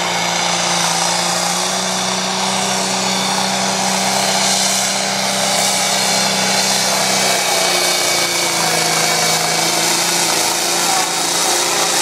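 Competition pulling tractor's engine running hard at high revs, a loud steady drone whose pitch drops slightly about seven to eight seconds in.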